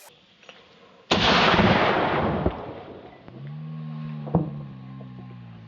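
A single loud boom about a second in that fades slowly over about two seconds, followed by a low steady drone with one sharp click partway through.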